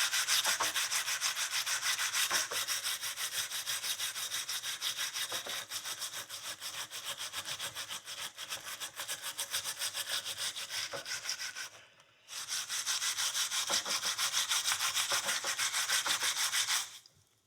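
Steel wool scrubbing rust and dirt off an old horseshoe in rapid back-and-forth strokes, about four or five a second. There is a brief pause about twelve seconds in, and the scrubbing stops shortly before the end.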